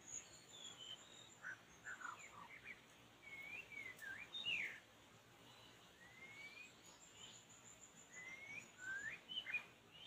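Birdsong: clear whistled notes gliding up and down in short phrases, with a rising whistle that recurs about every five seconds and a high thin trill near the start and again about seven seconds in.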